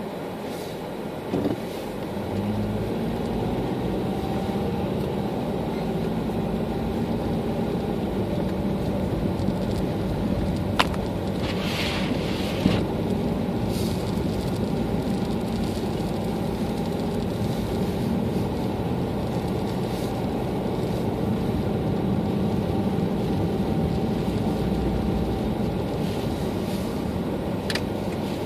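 Steady engine and road noise of a car driving, heard from inside the cabin, with a few brief clicks and knocks along the way.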